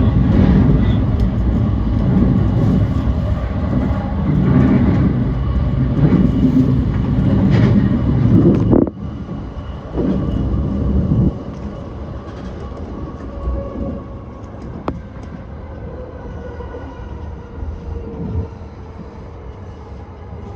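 JR East E235 series 1000 electric train running at speed, with steady rail and wheel rumble. The rumble is loud for about nine seconds, then drops suddenly. The quieter running noise that follows carries faint steady tones and a few brief knocks.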